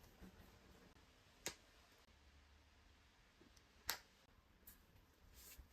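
Near silence in a small room, broken by a few sharp light clicks: two distinct ones, about a second and a half in and about four seconds in, and fainter ones near the end.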